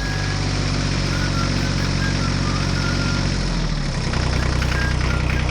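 An engine idling steadily, its note shifting and wavering from a little past halfway.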